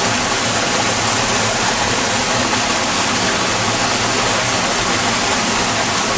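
Storm water rushing steadily through a storm sewer after heavy rain, a loud, even rush of flowing water.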